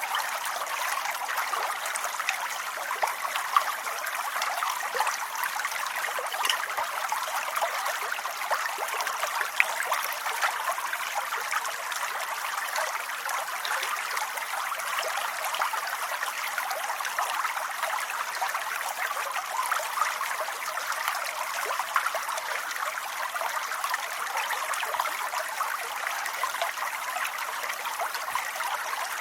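Steady rain falling: a dense, even patter of drops with a few louder single drops now and then.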